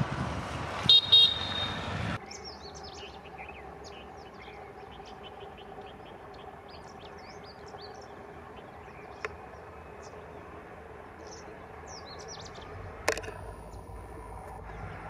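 Two short blasts of a train horn over the rumble of a diesel-hauled passenger train moving off down the line. Then birds chirping over the faint steady drone of an approaching WDP4B diesel locomotive, with a sharp click near the end.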